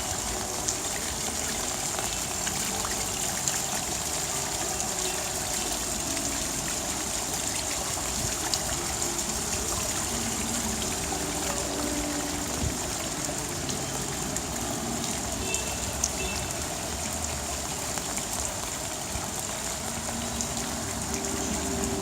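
Steady rain falling, with many small drop ticks scattered through a continuous watery hiss.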